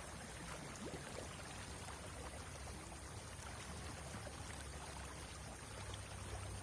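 Steady rush of a flowing stream of river water, with a few faint ticks.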